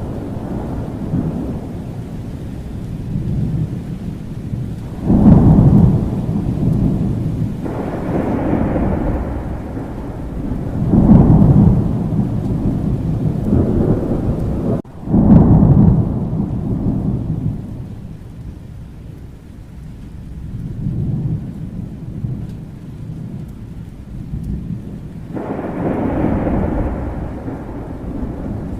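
Thunderstorm: steady rain with rolling thunder, rumbles swelling about 5, 11 and 15 seconds in and again near the end. The sound cuts out for an instant just before the clap at about 15 seconds.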